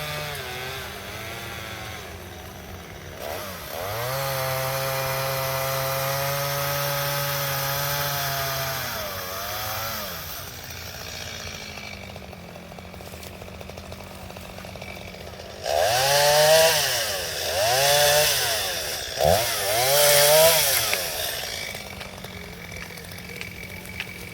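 An engine running at a steady speed for several seconds, then dropping back, and near the end revved up and down several times in quick succession.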